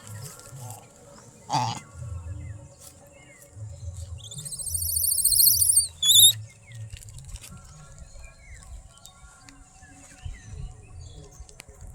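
A bird's loud, high, wavering call rises about four seconds in and holds for about two seconds, then a short note follows, over a low outdoor rumble.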